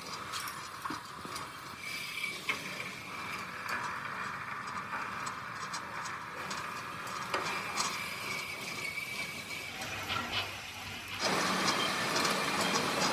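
Workshop metalworking machinery running: a steady mechanical hum with a thin whine and scattered metallic clicks and ticks. It gets louder and fuller about eleven seconds in.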